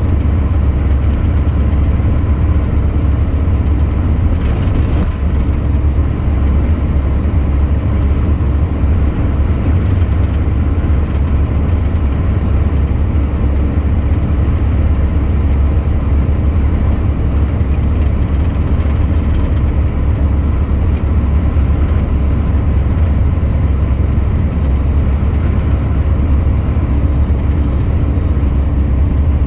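Truck driving at a steady pace: engine and road noise as a constant low drone.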